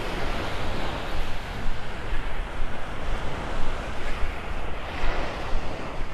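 Surf washing up on the beach, with wind rumbling on the microphone; a wave's wash swells about five seconds in.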